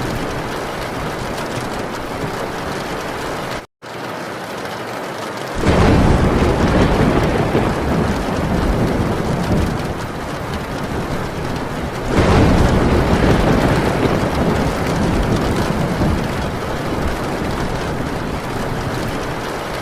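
Heavy rain pouring steadily on a metal tin roof, with two long rolls of thunder swelling in, the first about six seconds in and the second about twelve seconds in. The sound cuts out for a split second near four seconds in.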